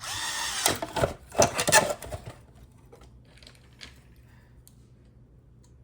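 Small screws and hard plastic mirror parts being handled on a bench: a brief scraping rattle, then a cluster of sharp clicks and clinks, settling into faint ticks for the last few seconds.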